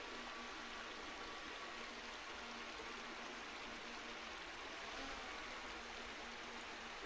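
Small woodland brook running: a faint, steady rush of water.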